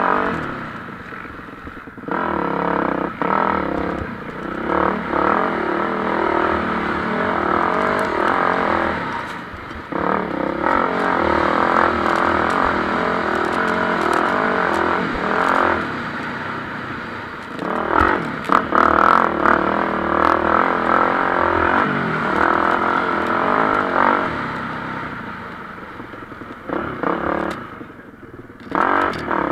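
MX1-class motocross bikes racing, engines revving and changing pitch as they accelerate and shift, swelling louder and fading several times as bikes pass.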